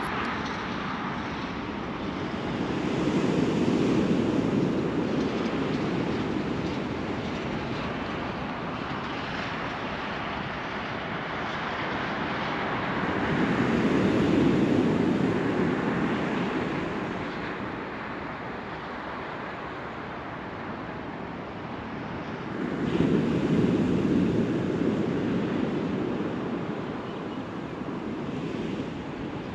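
Surf breaking and washing up a beach, swelling three times about ten seconds apart.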